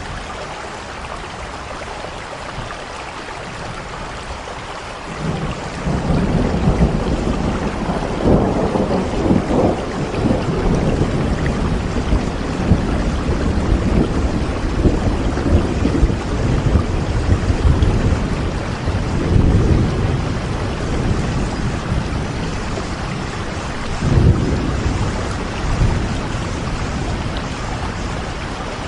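Steady rainfall with rolling thunder: a deep rumble comes in about five seconds in and swells several times over the rain before easing toward the end.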